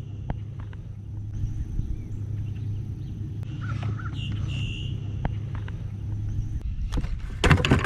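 A bird calls with a short wavering cry about four seconds in, over steady outdoor rumble on the water. Near the end comes a quick burst of sharp knocks and splashing as the fish is handled at the kayak.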